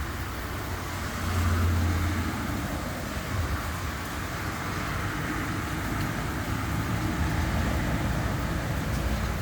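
Road traffic on a rain-wet road: a steady rush of tyres and engines, with a low engine hum that swells about a second in as a vehicle passes.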